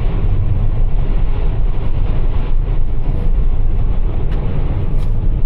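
Steady low rumble of Blizzak snow tires and road noise heard inside a Toyota RAV4 Prime's cabin while driving through snow and slush, with a couple of light ticks near the end.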